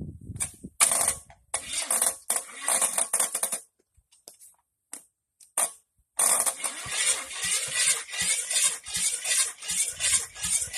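Air hissing in on-and-off bursts, with a longer fluttering stretch from about six seconds in. It is air being pushed out of the truck engine while its compression is checked.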